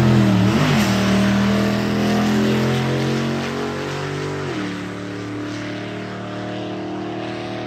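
Car engine revving high, its pitch wavering, then held, then dropping sharply about four and a half seconds in. The sound fades gradually as the car draws away.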